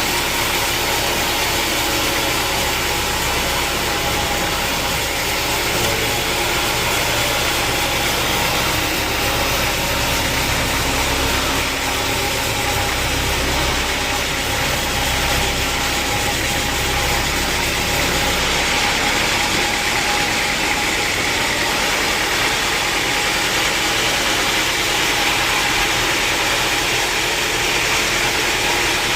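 Sawmill machinery running steadily: a loud, even mechanical noise with a steady hum. The deepest rumble drops off about two-thirds of the way through.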